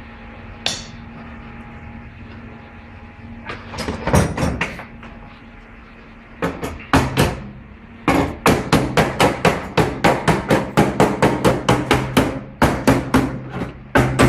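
Hammering: a few separate blows, then from about eight seconds in a fast, even run of blows, about three to four a second.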